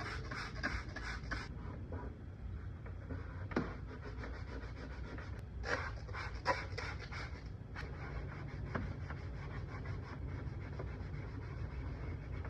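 Quick back-and-forth scrubbing strokes on a wooden drawer, about five a second, in several short runs, over a low steady hum. This is hand scrubbing of a Bar Keepers Friend paste used to bleach out a stain in the wood.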